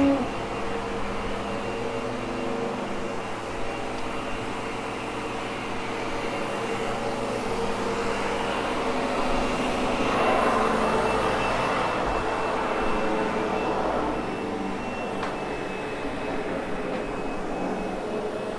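Sebo X8 upright vacuum cleaner running steadily with a constant motor whine as it grooms a freshly cleaned, slightly damp wool rug. It grows louder for a few seconds about ten seconds in.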